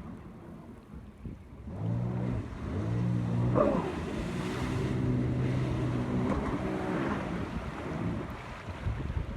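Jet ski engine running with a steady drone that comes in about two seconds in and eases off near the end, over wind buffeting the microphone.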